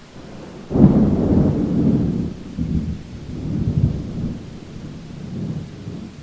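A thunderclap breaks about a second in and rolls on as a deep rumble in several swells, fading toward the end, over steady rain.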